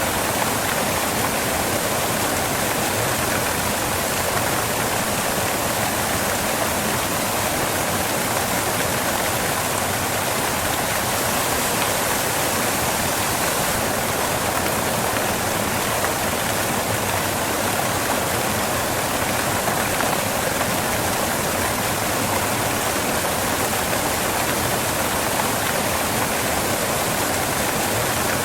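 Waterfall: water falling onto rocks, a steady, even rushing that does not change.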